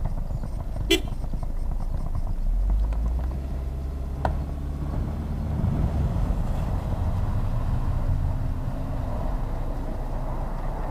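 Car engines under load in deep snow, revving up about two and a half seconds in and held at high revs as the stuck Toyota Sprinter Carib wagon is worked free. A sharp click about a second in and another about four seconds in.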